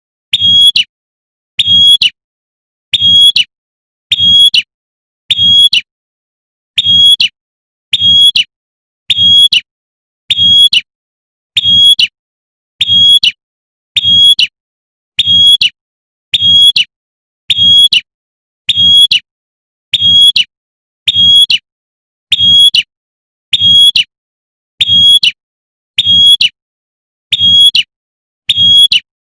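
Female prinia (prenjak) giving the short sharp "tembakan" call used as a lure to draw in males, repeated evenly about once every second and a quarter, loud, with a low buzz under each call.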